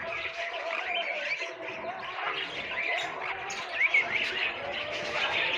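A flock of parrots in an aviary, chattering and squawking: many short, overlapping calls with no pause.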